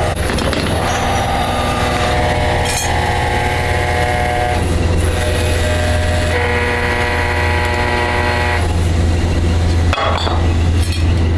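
Heavy machinery in a brass pipe workshop running with a steady loud low hum. A multi-pitched whine rises over it twice, each time for a few seconds, and a short clattering comes near the end.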